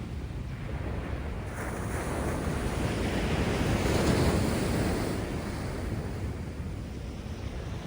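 Heavy surf after a typhoon: rough sea waves breaking and washing ashore in a continuous rumble, swelling to a peak about four seconds in and easing off, with wind buffeting the microphone.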